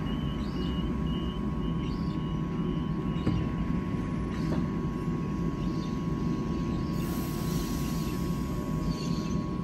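Sydney Trains D-set (Mariyung) double-deck electric train standing at the platform, its doors closing: a door-closing warning beeps about twice a second, stops about three seconds in, and the doors shut with a knock. Under it runs the train's steady hum and rumble, and a high hiss comes in near the end.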